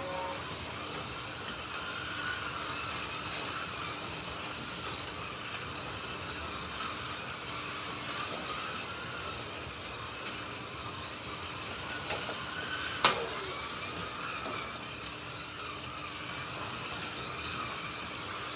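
Several Slot.it slot cars racing on a track, their small electric motors whining in pitch that rises and falls as the drivers throttle through the lap. A single sharp click comes about thirteen seconds in.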